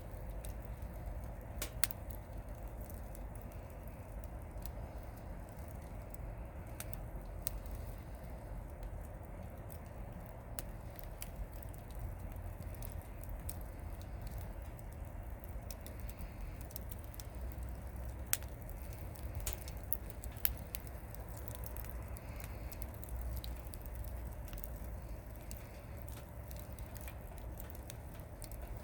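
Wood campfire burning, firewood crackling and popping in scattered sharp cracks over a steady low rush. The loudest pops come about two seconds in and a few times around eighteen to twenty seconds in.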